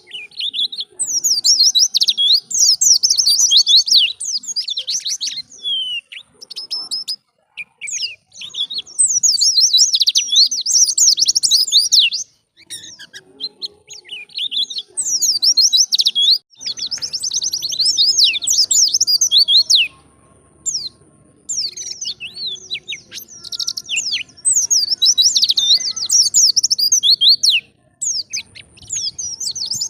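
White-eye (pleci) singing: rapid, high twittering phrases a few seconds long, separated by short pauses.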